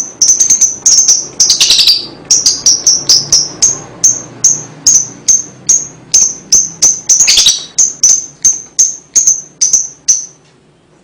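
Lovebird calling in a rapid series of short, sharp high chirps, about three a second, with two longer calls that sweep lower mixed in. The chirping stops about ten seconds in.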